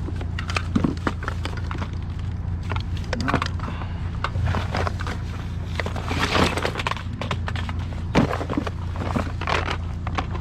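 Scattered knocks and clatter of curbside junk being handled and searched, with a sharper knock about six seconds in and another near eight seconds, over a steady low hum.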